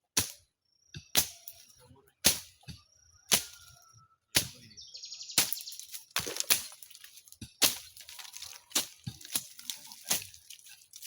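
Sharp knocks or blows repeating about once a second, each with a short ring, with faint high chirping in between.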